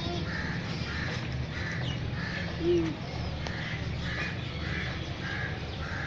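Short bird calls repeating about twice a second over a steady low hum, with one brief low voice sound about two and a half seconds in.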